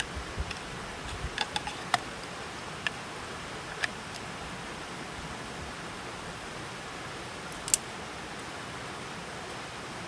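Steady hiss of running water or rainfall, with a few sharp clicks and knocks in the first few seconds and one loud snap about three-quarters of the way through.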